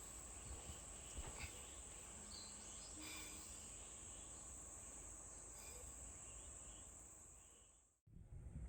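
Faint, steady high-pitched buzz of insects in summer woodland, with a few short faint chirps. It fades out near the end.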